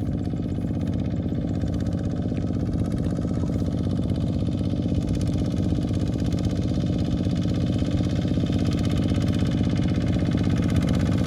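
Small farm tractor's engine running steadily with a fast, even chugging pulse, gradually getting louder.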